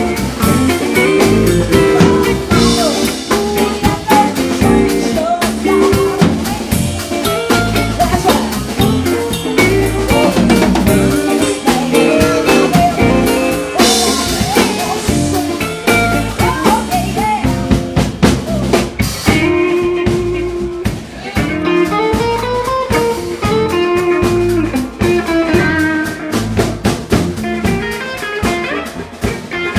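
Live blues band playing: a drum kit keeping a steady beat under electric guitar and other instruments.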